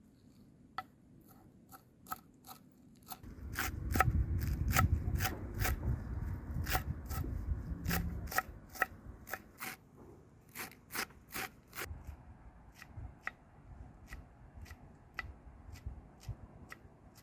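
Food being cut in a run of crisp, sharp cuts, about two to three a second, with a denser low rumble of handling through the middle of the run.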